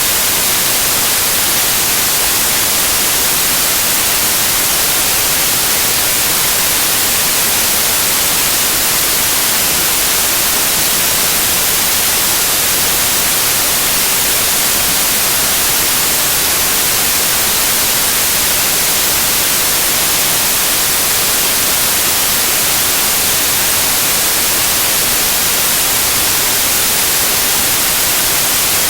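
Loud, steady white noise: an even hiss that does not change, strongest in the high frequencies.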